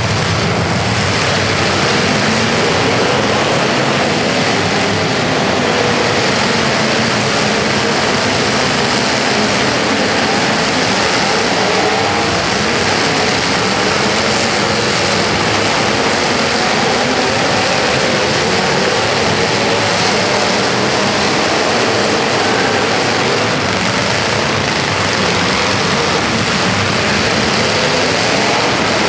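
Steady, loud din of several vehicle engines running at once.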